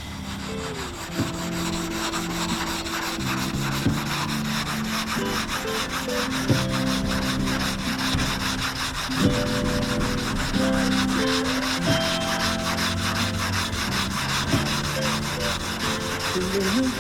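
Hand block-sanding on primed car-door bodywork: a sanding block rubbing back and forth in quick, even strokes, with background music under it.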